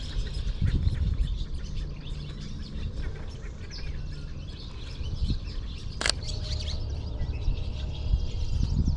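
Marsh birds chirping and calling, red-winged blackbirds and swallows among them, over a low outdoor rumble. A single sharp click comes about six seconds in.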